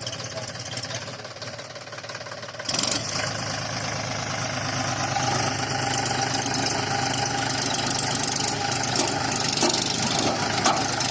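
John Deere 5050D tractor's diesel engine running, getting abruptly louder about three seconds in and then running steadily.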